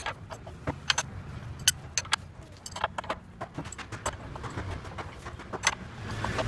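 Irregular sharp clicks and clinks, several a second, over a steady low hum.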